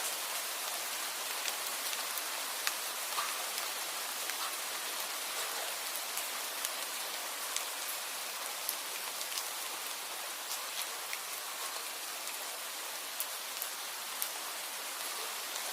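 Steady rain falling, an even hiss with scattered sharp ticks of individual drops landing close by.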